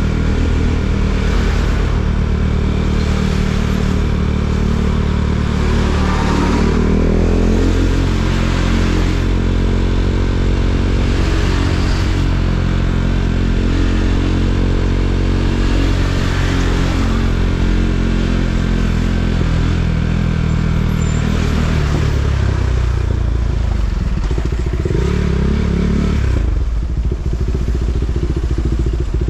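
KTM Duke 390's single-cylinder engine under way, its revs climbing about a quarter of the way in and holding, then dropping off in the last third, with a brief blip of throttle near the end.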